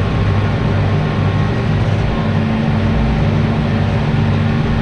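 Tractor engine running steadily under load, a constant low drone, with an extra steady hum joining about two seconds in.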